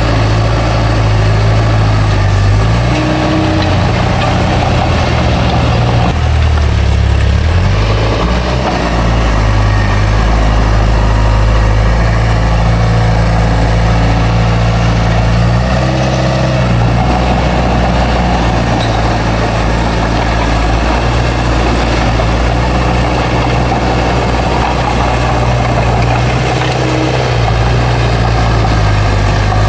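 Bulldozer's heavy diesel engine running steadily. Its pitch shifts several times as it works.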